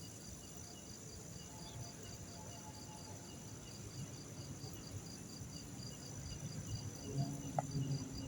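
Crickets chirping in an even pulse of about three chirps a second, over a steady high hiss. Low rumbling thumps join in near the end.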